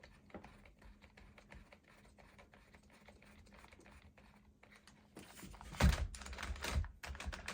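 Quick, faint clicking and ticking of small plastic parts being worked by hand as the RC truck's shock preload collars are adjusted, with louder handling and rubbing noise from about five seconds in.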